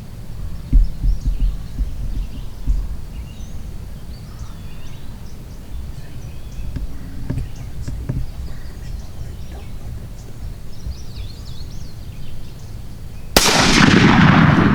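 Songbirds chirping and twittering, then about 13 seconds in a single loud shotgun blast at a turkey that echoes and rolls away slowly.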